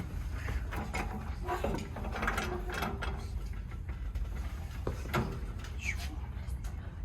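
Workshop handling noises as a drill press is set up: scattered knocks, clicks and scrapes of wood and metal over a steady low hum.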